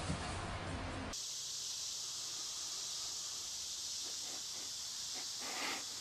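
Steady hiss of running water spraying, starting after a cut about a second in, with a few faint short sounds near the end.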